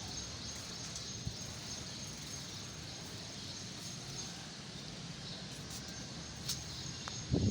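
Outdoor nature ambience: a steady even hiss with a thin, high, unbroken tone and a few faint high chirps. Near the end, loud low rumbling bumps begin.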